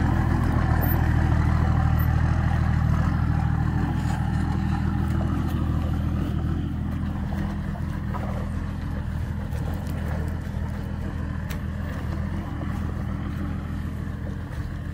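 A vehicle engine running steadily with a low hum, gradually getting quieter.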